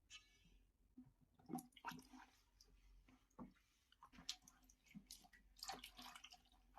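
Near silence, with a few faint, scattered squishing and rubbing sounds from wet dirt being scrubbed and wiped off a refrigerator door gasket, several of them close together near the end.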